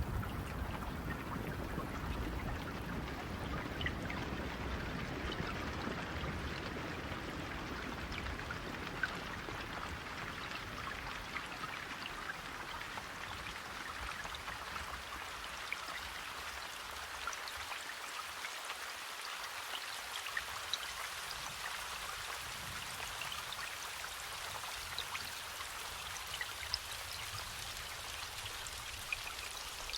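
Steady rain falling, with many separate drops ticking through the hiss and a few louder single drops. A low rumble underneath dies away over the first half.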